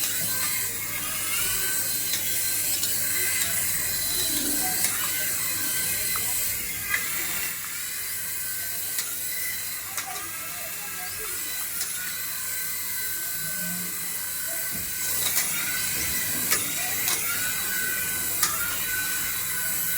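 Small electric motor of a remote-control toy whining, its pitch rising and levelling off again and again as it speeds up, with scattered clicks from its plastic gears.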